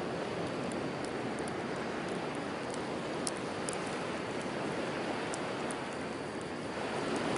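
Ocean waves washing steadily on the shore, swelling slightly near the end, with a wood campfire giving sharp, scattered crackles and pops over it.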